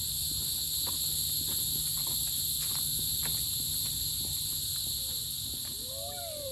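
Steady chorus of insects buzzing in several high-pitched bands without a break.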